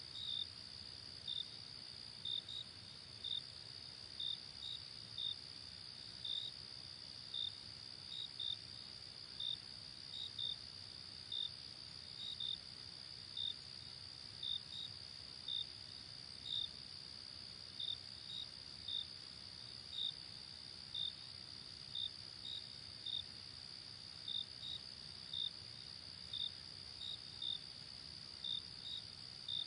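Crickets chirping at night: a steady high-pitched trill with separate short chirps repeating irregularly about one to two times a second.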